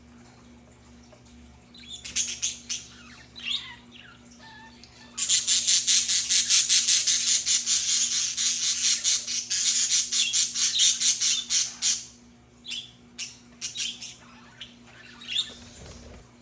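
Budgerigars calling and chattering: a few scattered chirps, then from about five seconds in some seven seconds of rapid, dense high-pitched chatter, then a few separate calls near the end.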